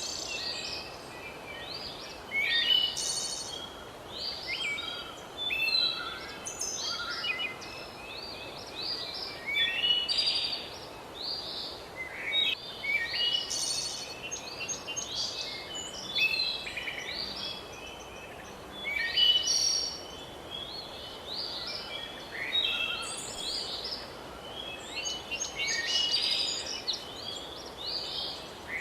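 Several songbirds singing and chirping at once, a dense chorus of short overlapping calls and trills, over a faint steady background hiss.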